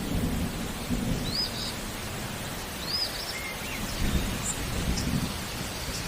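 Steady rain with low thunder rumbling, swelling about four seconds in. Over it, a songbird repeats a short, high, arched chirp several times.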